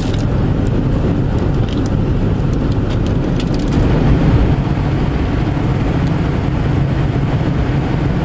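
Steady road noise of a car heard from inside the cabin: tyres on the road and the engine running at an even cruising speed, with a few faint ticks in the first half.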